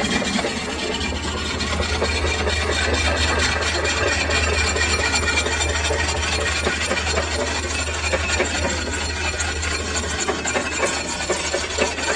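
Metal lathe running with a steady low hum while a tool scrapes and rubs against the turning metal workpiece.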